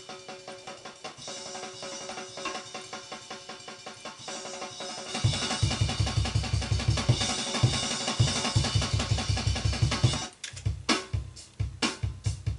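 Acoustic drum kit being played: cymbals and snare at first, then from about 5 s in a run of rapid, heavy bass drum strokes under the cymbals. The run breaks off about 10 s in, leaving separate drum hits.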